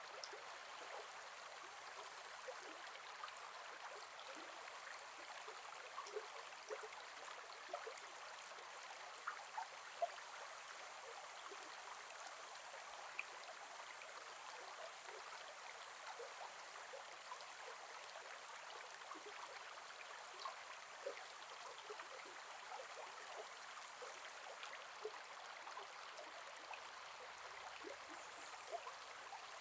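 Gentle forest river flowing: a steady water rush with many small splashes and gurgles scattered through it.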